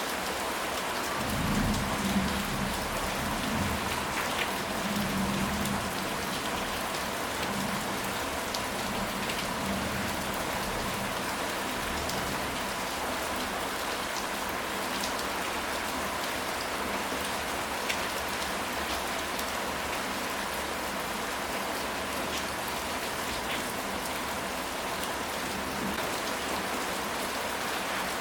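Steady rain falling, with a low rumble of thunder for a few seconds near the start.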